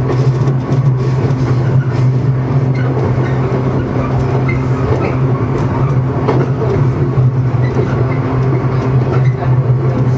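JR East 115 series electric train running, heard from inside the driver's cab: a steady low hum from the running gear mixed with the noise of wheels on the rails.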